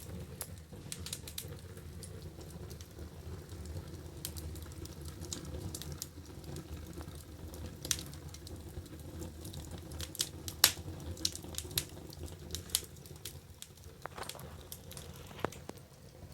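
Wood fire in a fireplace crackling: a steady low rumble of flames with irregular sharp pops and snaps, one much louder pop about two-thirds of the way through.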